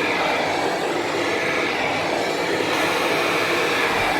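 Hair dryer running steadily, its motor and airflow making an even rushing noise.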